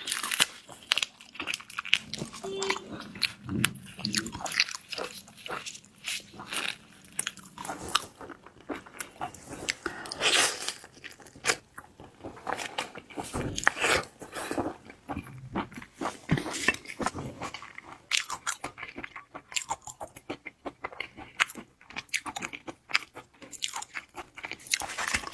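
Close-miked ASMR eating of seafood: a person biting and chewing, with many irregular crunches and clicks.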